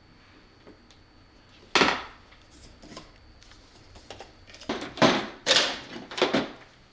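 Metal parts and hand tools being handled on a workbench: one sharp clank about two seconds in, then a quick run of clattering knocks near the end.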